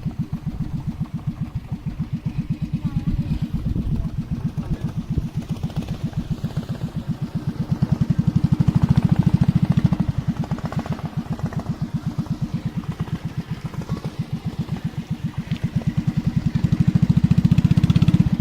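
A small engine running steadily with a rapid, even pulse. It grows louder about halfway through and again near the end.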